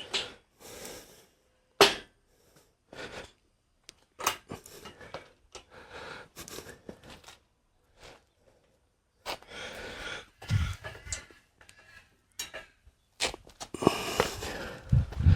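Scattered clicks, knocks and scrapes of steel parts of a home-built motorcycle lift being handled, with heavier thuds about ten seconds in and again near the end.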